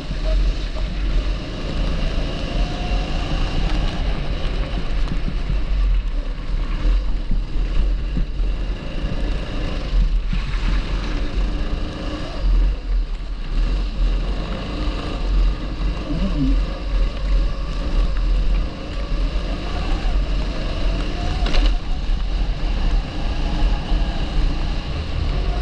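270cc TB rental kart engine running, its pitch rising and falling repeatedly as the throttle is opened and closed, over a steady low wind rumble on the microphone.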